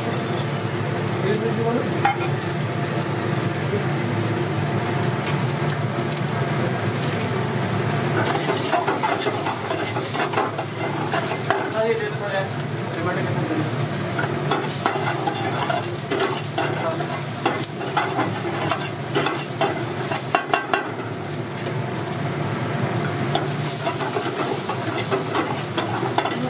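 Chopped onion and garlic sizzling in oil in a steel wok on a gas burner, stirred and scraped with a long steel ladle that clicks and taps against the pan, most often in the middle stretch. A steady low hum runs underneath.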